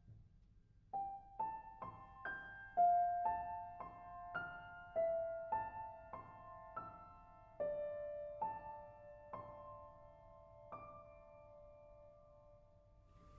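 Solo piano playing a slow, quiet phrase of single notes in the upper-middle register, each struck note left to ring, about two a second at first, then thinning out. The last note, about eleven seconds in, is held and fades away.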